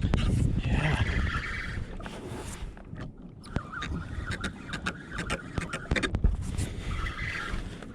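Irregular clicks and scratches from an undamped GoPro necklace mount knocking and rubbing on the kayak angler's chest, over a steady low rumble of wind and water.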